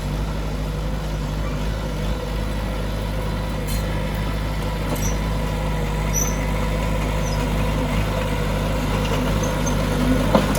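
Heavy diesel engine of earthmoving machinery running steadily at a constant speed, with a few faint high chirps and a short knock near the end.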